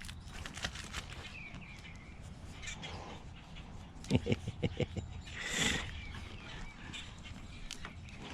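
An animal close by, nosing around: a quick run of about six low thuds about four seconds in, then a short breathy snort.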